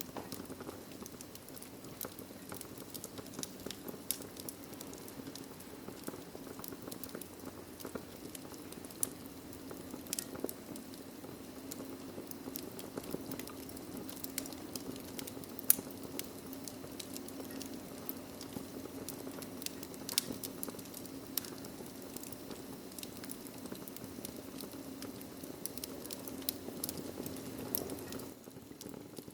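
Wood fire crackling in a fireplace: scattered sharp pops and snaps over a steady low rumble of burning. One pop about halfway through is the loudest, and the low rumble drops away about a second before the end.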